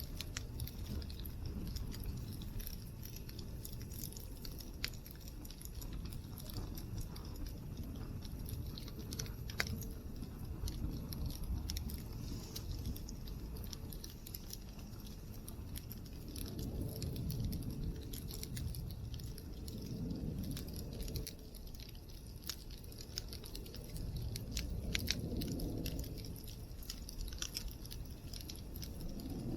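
Wood fire crackling in a fire pit: scattered sharp snaps and pops, a few louder ones, over a steady low rumble.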